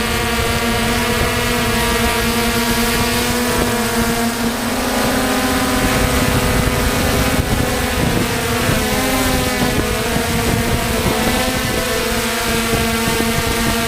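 DJI F550 hexacopter's six electric motors and propellers running with a steady buzzing hum, the pitch wavering a little in the middle as the drone manoeuvres, with wind rumble on the microphone.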